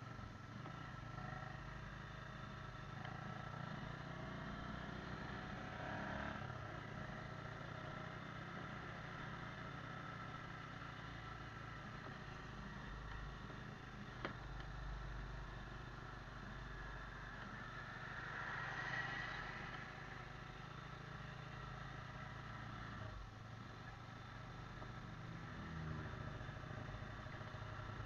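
Motorcycle engine running steadily on the move, with road noise underneath. It swells briefly louder about two-thirds of the way through.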